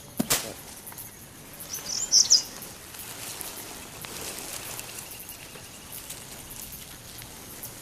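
A bird gives a short burst of high chirps about two seconds in, over a faint steady background of insects. A brief sharp sound comes just after the start.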